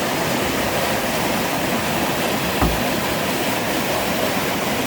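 Creek water rushing and splashing steadily, with one brief low thump about halfway through.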